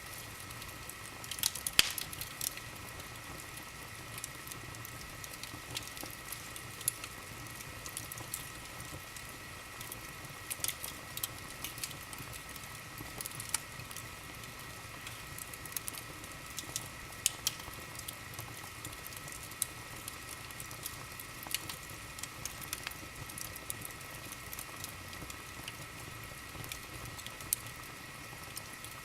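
Wood fire crackling in a fireplace: irregular sharp pops and snaps scattered over a soft hiss, with one louder pop about two seconds in.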